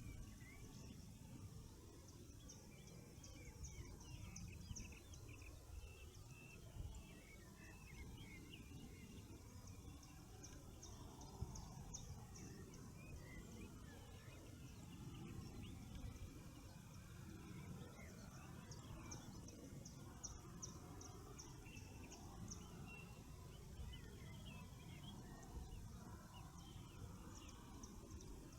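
Faint chorus of several wild birds singing: every several seconds a rapid train of very high, evenly spaced notes, with scattered shorter chirps and whistles between, over a steady low rumble.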